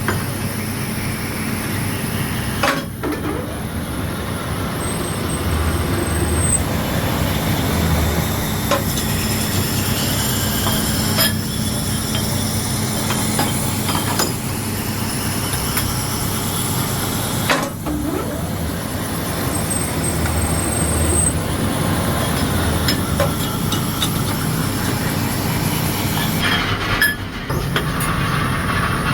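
Machine-shop machinery running steadily with a constant low hum, broken by occasional sharp metallic clicks and knocks.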